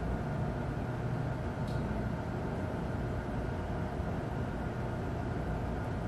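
Steady room tone of a lecture hall: a low rumble and hum with a faint click about two seconds in.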